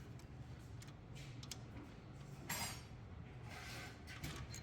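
Faint scattered metallic clicks and two short rasps, about two and a half and three and a half seconds in, from hand tools working loose the tight bolts of the catalytic converter.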